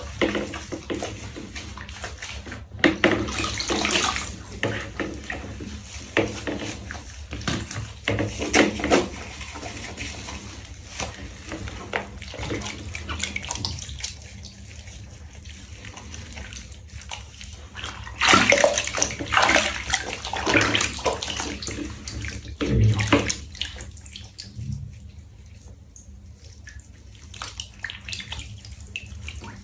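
Water splashing and sloshing in a tub while a cat is being bathed, coming in irregular bursts with quieter stretches between them.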